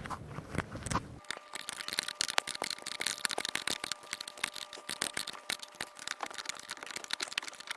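Rapid, irregular clicking of a wrench working a tight seat-track bolt, starting about a second in, with a faint steady tone underneath.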